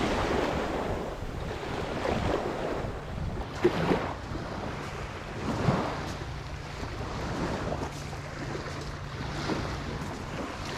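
Wind buffeting the microphone over small waves washing on the shore, with a brief knock about three and a half seconds in.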